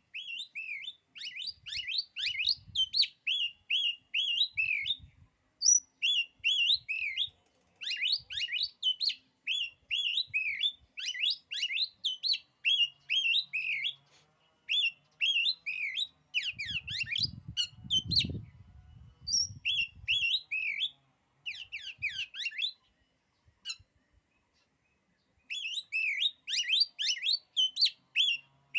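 Oriental magpie-robin (kacer) singing: runs of quick, varied whistled notes in bursts of a few seconds with short pauses between them. A brief low rumble comes in about two-thirds of the way through.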